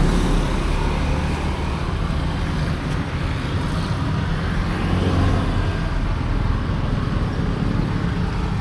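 Steady street traffic: a continuous hum of passing road vehicles.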